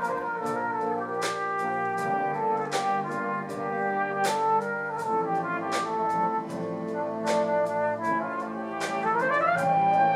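Brass-led wind band music with cymbal crashes about every one and a half seconds, and an upward run of notes near the end.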